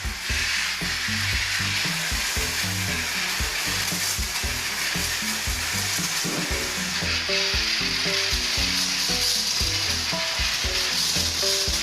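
Steady loud hiss, like a spray, with background music playing a simple melody underneath.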